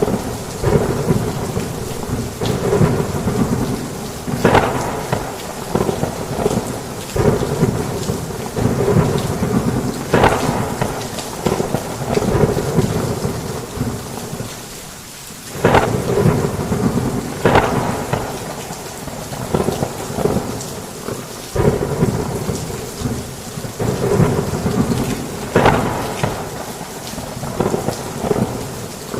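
Heavy rain with rolling thunder: a constant downpour hiss under repeated rumbles, several starting with a sharp crack, easing briefly about halfway through before a loud clap.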